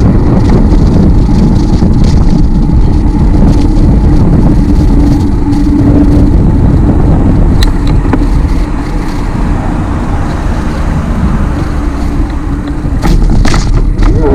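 Wind buffeting an action camera's microphone while cycling, mixed with tyre and road noise. A steady hum sounds for the first several seconds, and there are a few sharp clicks near the end.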